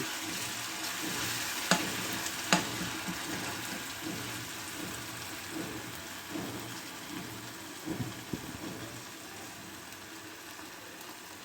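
Onion, ginger, garlic and green chilli paste sizzling in hot oil in a pan as it is stirred, with two sharp clicks of the spoon against the pan about two seconds in. The sizzle slowly dies down.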